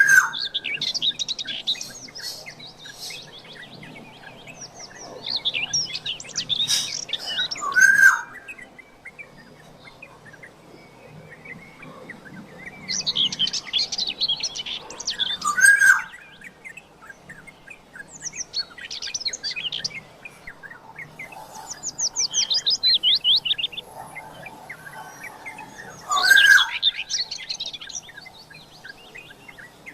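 Black-naped oriole (kepodang) singing in bursts every few seconds. Each burst is a quick run of high chattering notes, and several end in a lower, falling whistled note.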